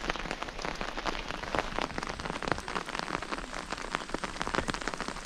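Heavy rain falling, a dense, steady patter of countless individual drops striking a surface.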